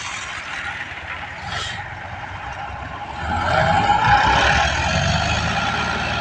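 Tractor engine running, which gets louder and rises in pitch about three seconds in as it is revved or pulls away. A short hiss comes about a second and a half in.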